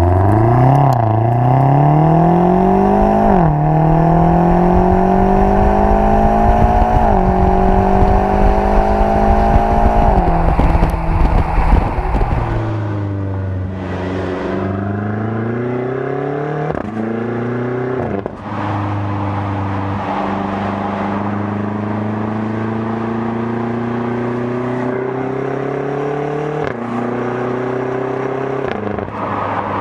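Twin-turbo V8 performance SUV accelerating at full throttle, the engine note climbing steadily and dropping sharply at each upshift, about every three to four seconds. About twelve seconds in the sound changes and turns a little quieter, then the revs climb again through further upshifts.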